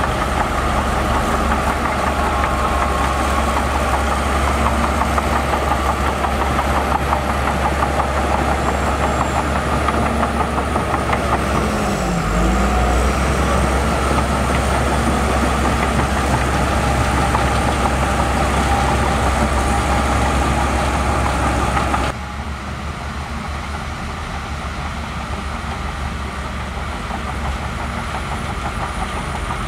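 Heavy diesel engine of an earthmoving machine running steadily; its pitch dips briefly and recovers about twelve seconds in. About three-quarters of the way through, the sound cuts abruptly to a quieter engine.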